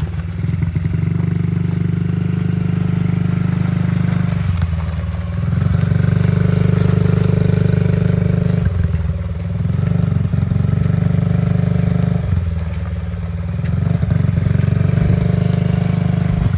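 Motorcycle engine running steadily, swelling louder a few times as the throttle is opened slightly.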